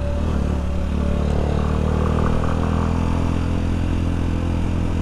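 Small single-cylinder motorcycle engine running steadily on the move, its pitch easing down slightly through the middle.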